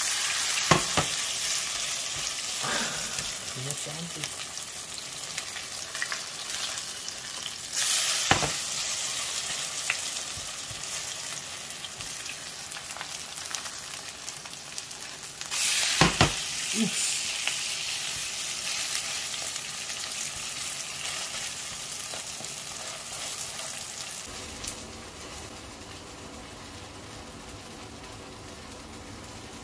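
Mung bean pancakes (bindaetteok) sizzling in hot oil in a nonstick frying pan, with a spatula scraping and knocking in the pan. The sizzle surges sharply twice, about 8 and 16 seconds in, and drops to a much quieter level near the end.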